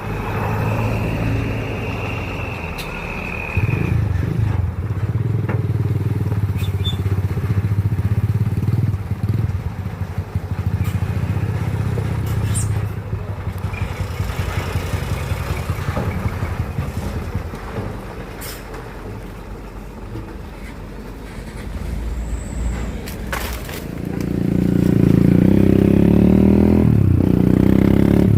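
Heavy diesel machinery engine running steadily, with a few sharp knocks. It gets louder and higher about three quarters of the way through as it is revved.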